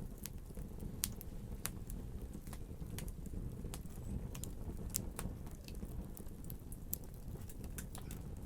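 Wood fire burning, with a steady low rumble and sharp irregular crackles and pops several times a second.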